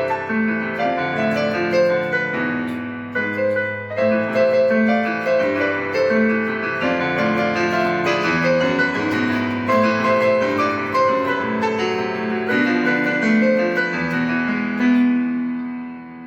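Piano playing an instrumental passage without vocals, a melody over chords, easing off near the end.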